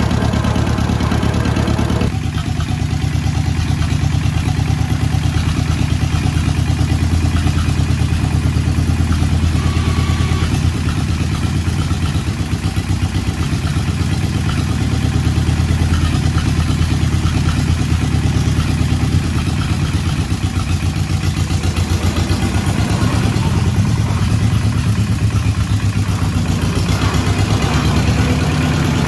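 John Deere LA tractor's two-cylinder engine, freshly swapped in and just started, running steadily with an even firing beat. Its note changes about two seconds in, settling lower, and picks up again near the end.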